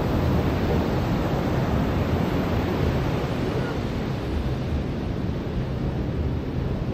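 Ocean surf breaking and washing onto a beach: a steady rushing noise with a heavy low rumble that eases slightly about halfway through.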